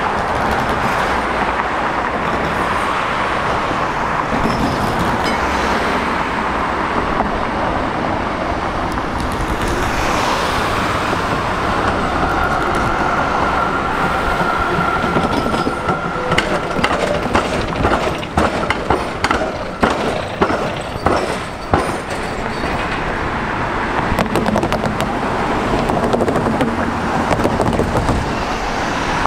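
Electric suburban train passing, its wheels clattering over rail joints in a quick run of sharp clicks a little past the middle, over steady road-traffic noise.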